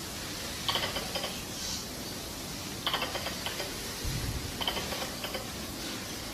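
Squirrel chattering call: three short bursts of rapid clicking chatters about two seconds apart, over a steady hiss. It is a lure call meant to draw wild squirrels in the mating season.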